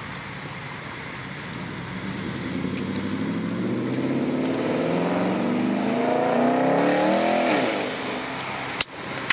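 Audi S5 with an aftermarket exhaust accelerating away. Its engine note climbs steadily in pitch and gets louder over several seconds, then falls away and fades near the end.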